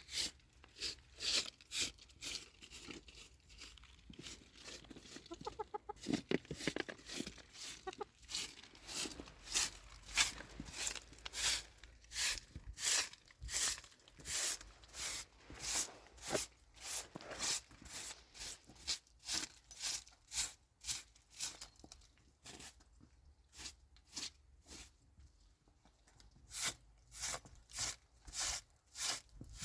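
Repeated short scraping strokes, about one to two a second, pausing briefly now and then, with a short pitched sound about six seconds in.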